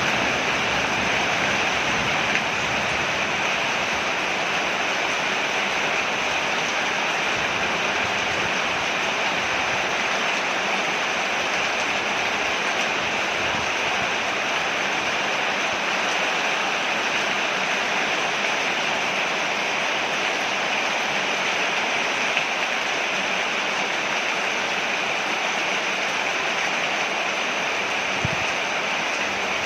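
Steady rain falling on a porch: an even, unbroken hiss that stays level throughout.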